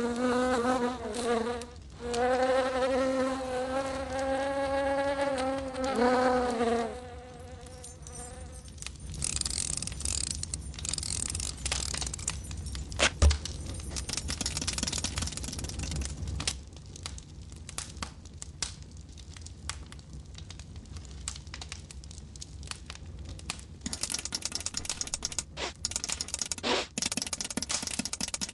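Cartoon buzzing of a small flying insect: a loud pitched buzz that bends up and down, breaks off briefly about two seconds in, and stops about seven seconds in. After that come quieter scattered crackles and small ticks, with a quicker run of ticks near the end.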